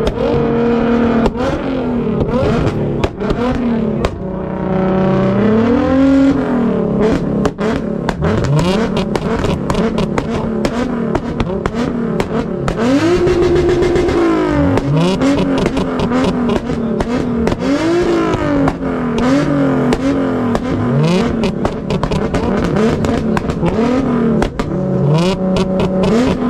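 Car engine revving hard over and over, its pitch climbing and falling again every second or two, with short clicks scattered over it.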